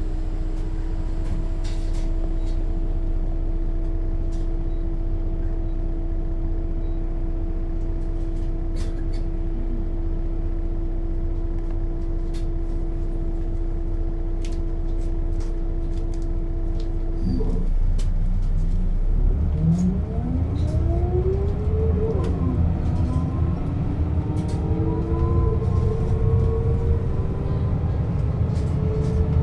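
1996 Setra S 315 UL bus's diesel engine running at a steady idle hum for the first half or more. About two-thirds of the way in it pulls away and gets louder, with engine pitch rising and falling as the ZF gearbox shifts up. Scattered light clicks and rattles are heard throughout.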